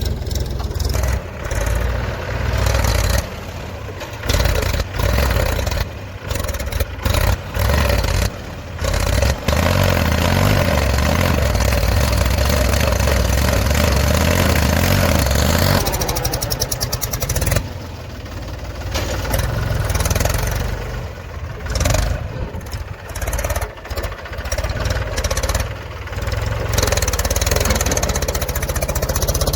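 Heavy diesel machinery engine running and revving unevenly, its level rising and falling sharply again and again. About sixteen seconds in it ticks over in a quick, even rhythm for a moment before revving again.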